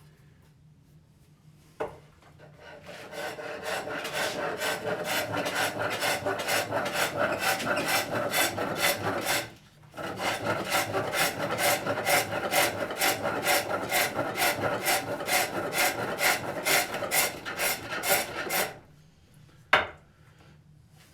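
A new, sharp hook tool cutting a wooden cup blank on a foot-powered pole lathe. The scraping cuts repeat in a quick, even rhythm as the work spins back and forth. They start about two seconds in, break off briefly midway, and stop a couple of seconds before the end, with a single knock at each end.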